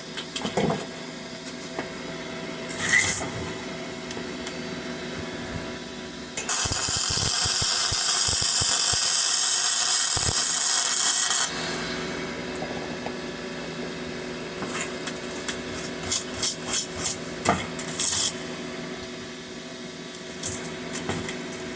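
Flux-core welding arc from a Parkside PMSG 200 A1 welder, crackling loudly and steadily for about five seconds as a bead is laid, at a current the welder thinks is a little too high. Later comes a run of about eight short scraping strokes, over a steady hum.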